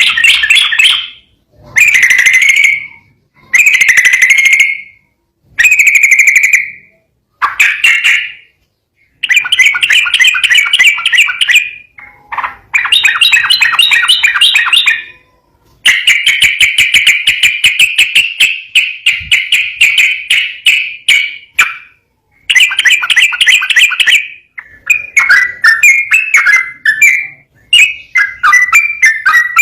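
Sooty-headed bulbul (trucukan) singing loudly: short bubbling phrases of one to two seconds with brief pauses between them, then, about halfway through, longer rapid rolling runs lasting several seconds.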